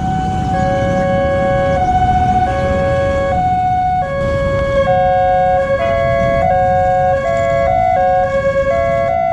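Electronic two-tone railway level-crossing warning alarm, alternating between a high and a low tone; about five seconds in a second alarm joins out of step with the first, over a low rumble.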